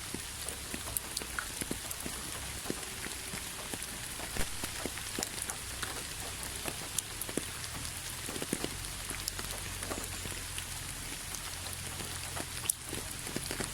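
Steady rain: an even hiss with many separate drops ticking and tapping at irregular moments.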